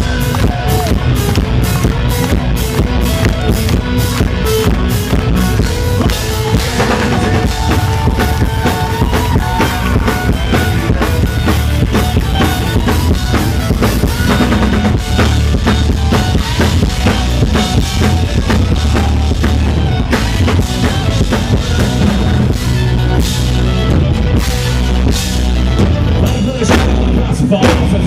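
Live Irish folk-rock band playing loudly, a drum kit with bass drum and snare driving a steady beat under sustained melody instruments.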